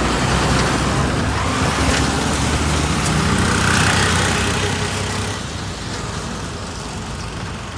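Road traffic: motor vehicle engines and tyre noise in a steady wash, dropping somewhat after about five seconds.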